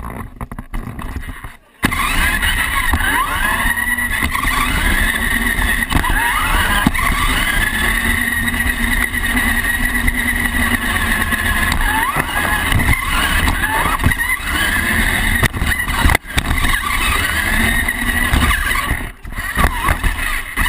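Remote-control monster truck driving, its motor whining and sliding up and down in pitch over a steady rumble. It starts about two seconds in and drops out briefly twice near the end.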